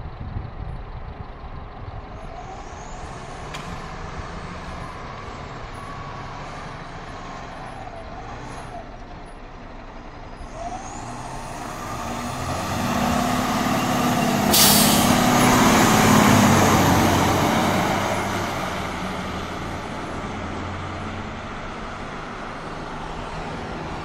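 Fire engine driving past: its engine rumble grows louder, is loudest about 13 to 17 seconds in, then fades. A brief high hiss comes as it passes.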